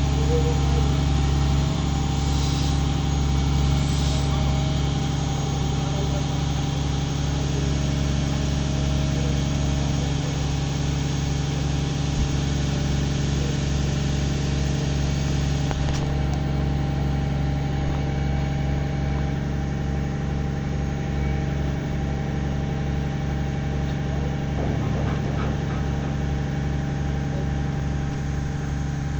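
Engine running steadily at an even speed: a constant low hum that does not rise or fall.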